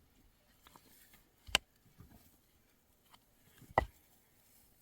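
Two sharp knocks about two seconds apart, with faint scattered ticks and rustles between them.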